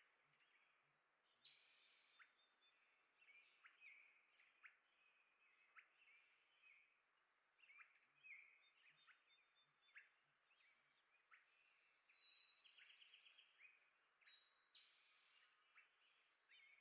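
Small songbirds chirping and calling, faint: many short, quick chirps and brief trills overlapping one after another, with no pause longer than a second or so.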